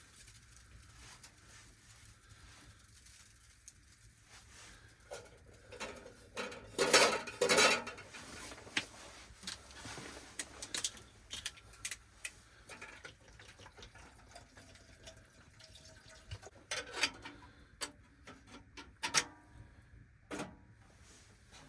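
Metal cookware being handled: a pot and utensils clanking and clinking at irregular moments, with water sloshing. The loudest clatter comes about seven seconds in, and a few more sharp clanks come near the end.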